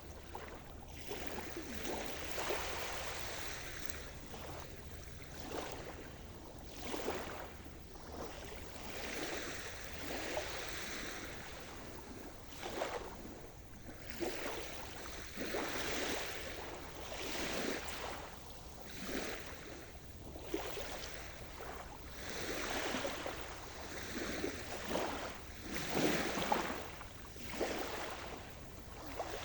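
Sea surf: small waves breaking and washing on the shore, swelling and falling every second or two with no pause between them.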